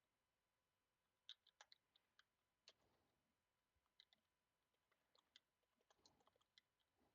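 Faint computer keyboard typing: irregular, scattered key clicks starting about a second in, over near silence.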